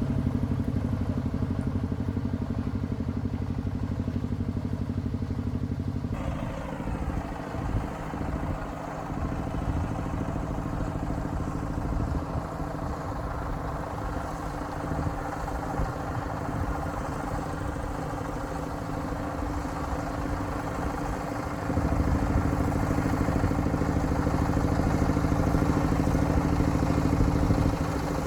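An engine running steadily at idle, its note changing twice: it turns rougher about six seconds in and fuller and louder again near the last quarter.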